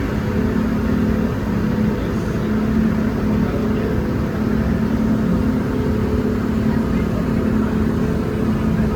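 A ferry's engine running with a steady drone, a constant hum over a low rumble with no change in pace.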